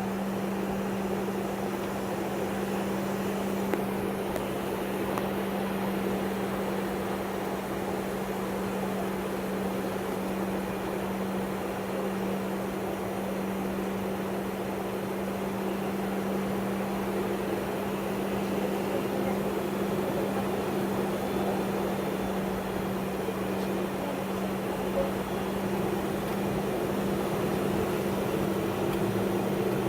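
Steady cabin noise inside an MD-83 airliner: its rear-mounted turbofan engines and air system at low power, with a constant low hum over an even rush. The sound holds level with no spool-up.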